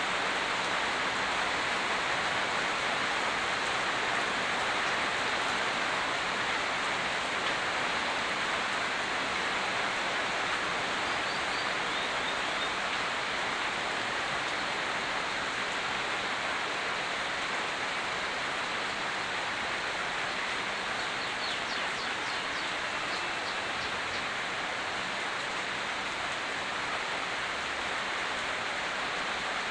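Steady rain, an even hiss that never lets up. A few faint, short high chirps come through twice, near the middle and again later.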